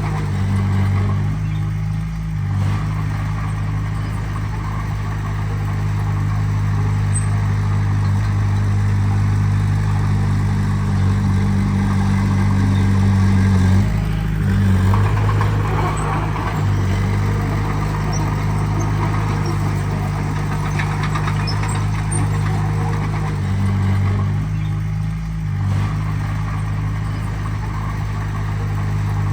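Diesel engine of heavy earthmoving equipment running steadily, its pitch shifting briefly a couple of seconds in, around the middle and again near the end.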